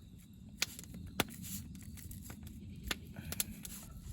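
Campfire wood crackling: a low steady hiss of the fire with a handful of sharp, separate pops.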